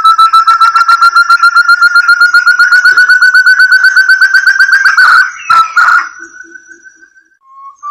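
Lure recording of a forest partridge (puyuh hutan) calling: a fast series of clear whistled notes, about eight a second, slowly climbing in pitch. About five seconds in it breaks off with a couple of sharp clicks and a short fading whistle, then a brief pause.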